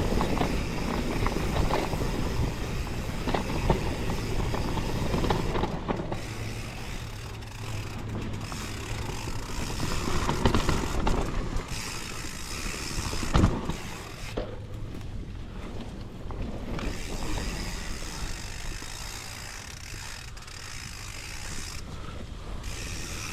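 Mountain bike descending a rough, wet trail: rattling and clicking of the bike's drivetrain and rear hub ratchet while it coasts, with a sharp knock about 13 seconds in. The sound grows quieter over the second half.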